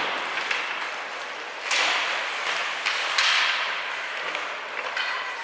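Ice hockey play on a rink in an echoing arena: two sharp knocks about a second and a half apart, each trailed by a hissing scrape and echo, with lighter taps between.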